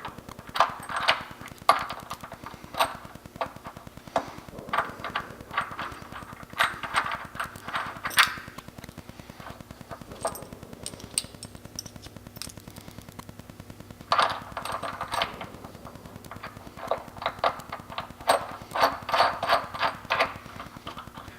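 Sharp metal knocks and clanks from tools and hardware, in irregular clusters of several a second.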